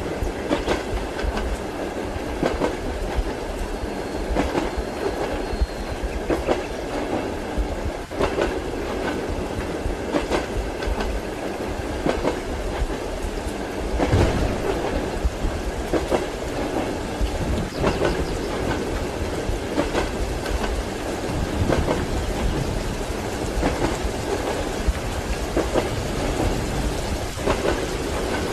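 Train wheels clacking over rail joints, with a steady low rumble of a moving passenger carriage as heard inside the compartment; the clacks come every second or two.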